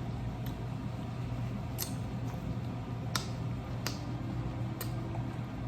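Close-up eating sounds: chewing, with about five sharp mouth clicks and smacks spread through it, over a steady low hum.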